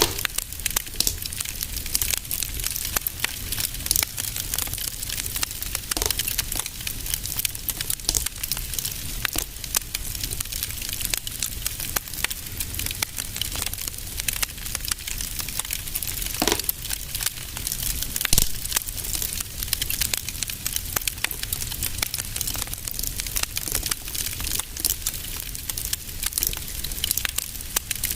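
Wood fire burning in a fireplace, crackling and popping steadily over a soft hiss, with a few sharper pops about 16 and 18 seconds in.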